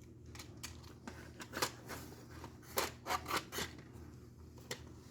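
Packaging and small parts being handled by hand: scattered light clicks, then a few short scraping, rustling strokes in the middle, the loudest clustered about three seconds in.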